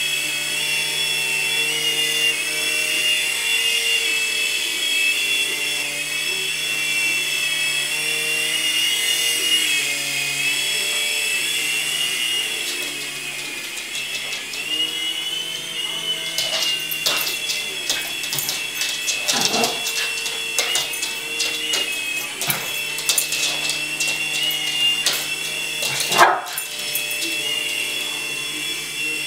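Small toy RC helicopter's electric rotor motors whining steadily in flight, the pitch wavering as the throttle changes. In the second half, a run of short sharp clicks and knocks breaks in, the loudest a little before the end.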